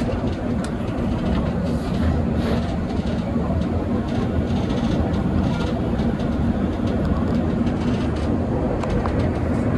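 Cable-hauled funicular car climbing on its rails, heard from on board: a steady low rumble with a few faint ticks.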